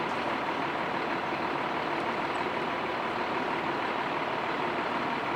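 Fire engine running with a steady, even rushing noise and a faint steady whine.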